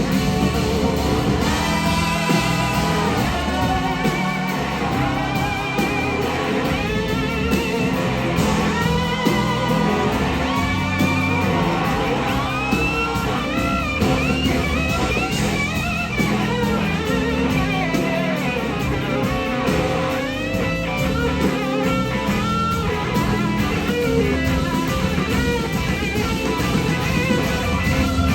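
Electric slide guitar soloing over a blues-rock band, with gliding notes and wide wobbling vibrato on held notes.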